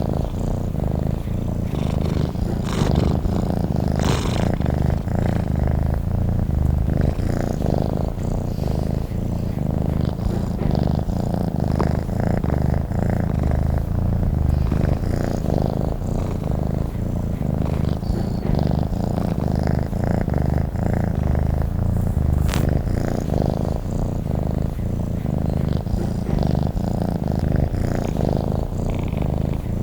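Domestic cat purring steadily and closely, a continuous low rapid rumble that pulses with the cat's breaths in and out.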